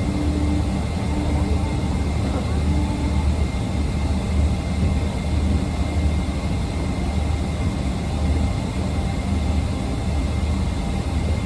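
Steady drone of an airliner cabin in flight: jet engines and rushing air, even and unbroken, with a thin high whine running through it.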